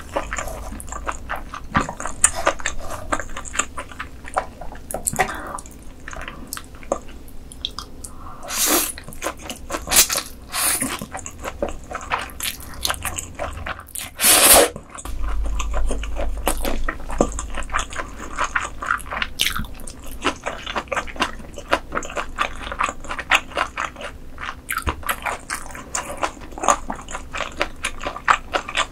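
Close-miked eating: chewing and biting with a dense run of short wet, crunchy clicks. Louder single mouth sounds come about nine and fourteen and a half seconds in.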